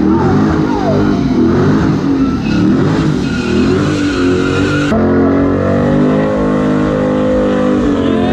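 Car engine at full throttle in a drag race, its pitch repeatedly climbing and dropping back as it goes up through the gears; the sound changes abruptly about five seconds in to a steadier engine note.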